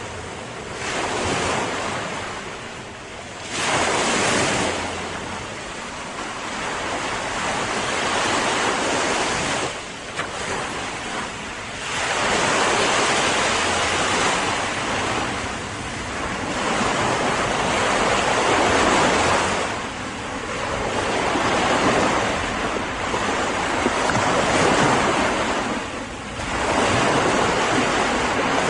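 Ocean waves breaking and washing up on shore, a dense hiss of surf that swells and falls back every few seconds.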